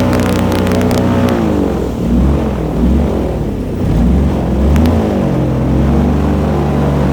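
Airboat engine and propeller running loud; the engine speed drops about a second in, rises and falls unevenly for a few seconds, then holds steady near the end.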